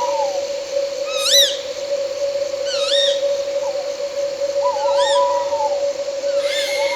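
Owl calling at night: a rising-and-falling whistled note repeated about every one and a half to two seconds, with lower quavering notes twice. Under it runs a steady, unbroken drone of night insects.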